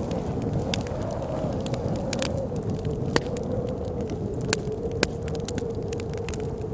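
Wood fire crackling with scattered sharp pops, over a steady low roar of blizzard wind that carries a wavering howl.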